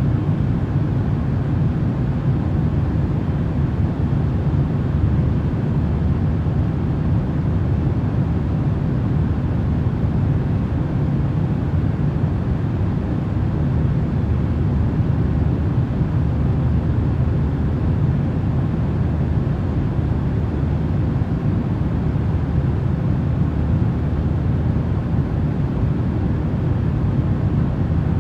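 Steady sleep-aid noise track: an even, deep rushing noise, heaviest in the low range, that does not change.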